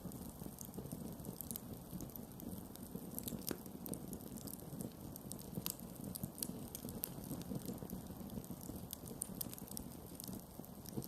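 Campfire burning: a steady low rush of flames with frequent, irregular sharp crackles and pops from the burning wood.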